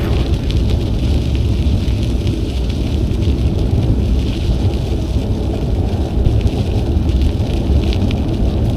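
Wind buffeting an action camera's microphone while riding a bicycle: a steady low rumble, with a crackling hiss from the bike's tyres rolling over the trail surface.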